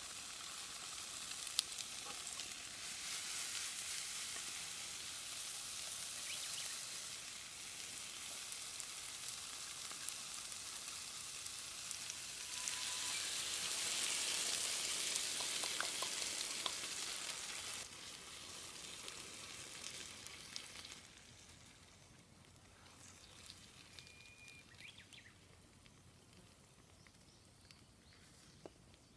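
Food sizzling and frying in a pan over a wood fire, loudest in the middle, then dying down to a faint sizzle in the last third.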